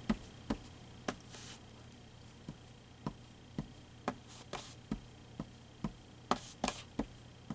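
An ink pad dabbed again and again onto a strip of cheesecloth on a craft table: a dozen or so light taps, roughly two a second at uneven spacing, with a couple of brief soft rustles of the cloth.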